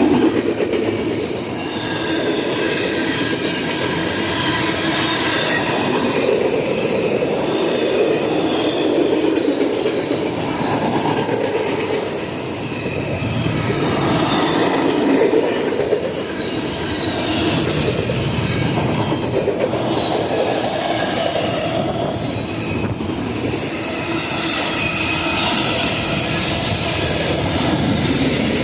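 A train's cars rolling past on the track: continuous steady wheel-on-rail noise, with faint thin high squealing tones from the wheels.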